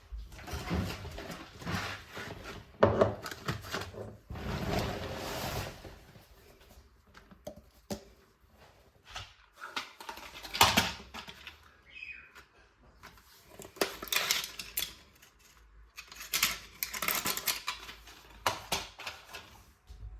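Dishes and cutlery being handled: an irregular string of clinks, knocks and rustles, with sharper knocks about three and eleven seconds in.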